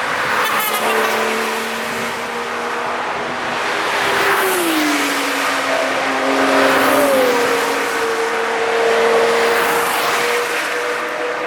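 Cars passing at speed on a racetrack, engines under load over tyre and road noise. The engine note drops in pitch as a car goes by, twice: about four seconds in and again about seven seconds in.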